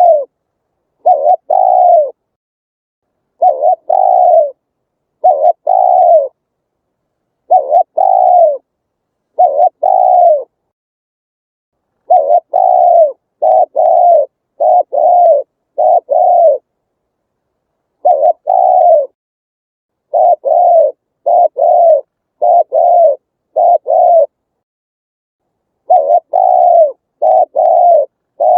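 Spotted dove cooing: a repeated territorial song of short low coos in phrases of two to five notes, each phrase separated by about a second of silence.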